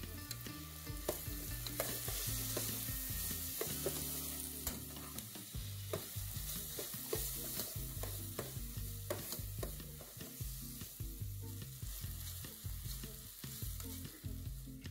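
Sliced onions and green chillies sizzling as they fry in a pot, with a spoon stirring through them and clicking and scraping against the pot many times.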